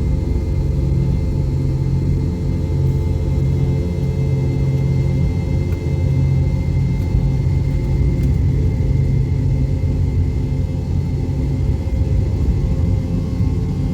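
Steady low engine rumble of a passenger airplane heard from inside the cabin, with several steady humming tones in it.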